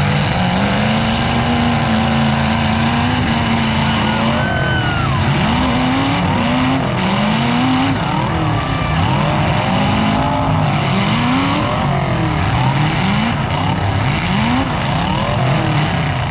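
Demolition derby car's engine revved hard over and over, the pitch climbing and dropping about once a second after a few seconds held high, as the car spins its wheels against the mud bank.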